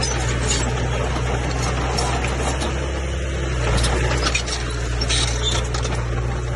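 Komatsu bulldozer's diesel engine running steadily at a low hum, with scattered metallic clinks and rattles over it.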